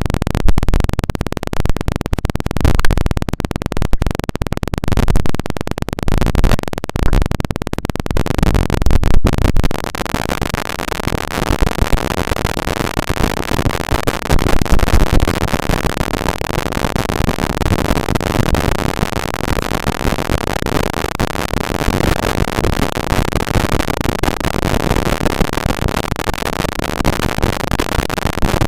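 Loud, harsh crackling and scratching right on an ASMR microphone, so close that it distorts. Sharp crackles pile up for the first nine seconds or so, then it settles into a steadier, dense hissing rustle.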